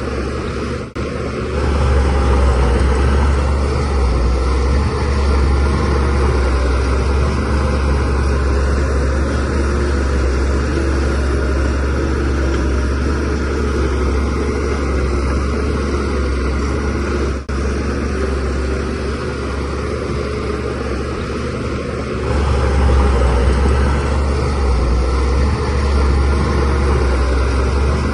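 DH17C3 crawler bulldozer's diesel engine running under load, a steady drone that rises in level a couple of seconds in and again near the end as it works harder.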